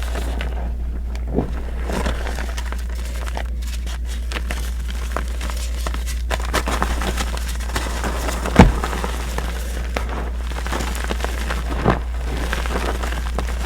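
Reformed gym chalk being crushed and crumbled, a run of small crisp crackles and crunches, with a louder thump about eight and a half seconds in and another near twelve seconds. A steady low hum sits underneath.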